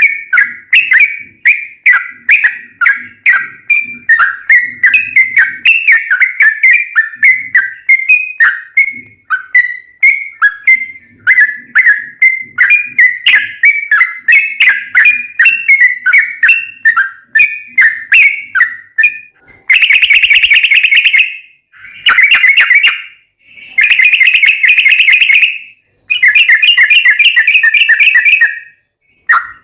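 Yellow-vented bulbul (trucukan) song: a fast run of short, bright chattering notes, then from about twenty seconds in, four long rolling trills with short breaks between them.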